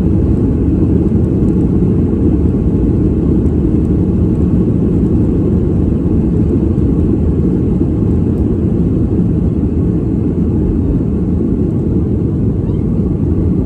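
Airplane cabin noise in flight, heard from a passenger seat: a steady, even rumble, heaviest in the low end, without change.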